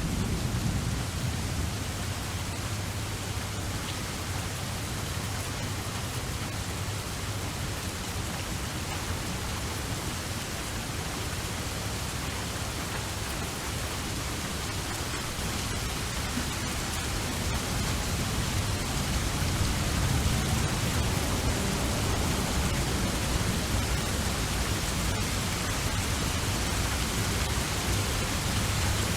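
Steady heavy rain, an even hiss with a low rumble underneath that grows slightly louder in the second half.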